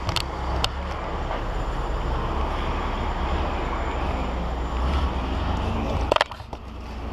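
Large truck engine idling steadily, with a couple of sharp clicks near the start and a loud burst of knocks about six seconds in.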